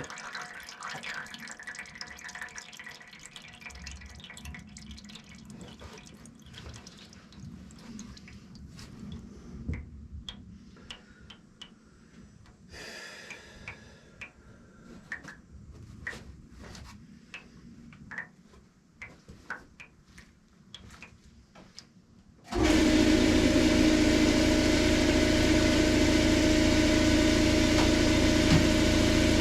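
Scattered faint clicks and light rattles of tools and parts being handled. Then, about 22 seconds in, a loud, steady machine noise starts abruptly and runs on without change.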